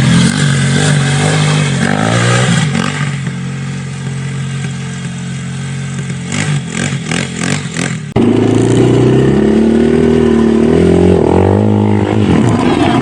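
Dirt bike engine running on a trail, its pitch rising and falling as the throttle is worked, with a rattling clatter about six to eight seconds in. About eight seconds in the sound jumps abruptly to another, louder stretch of engine revving.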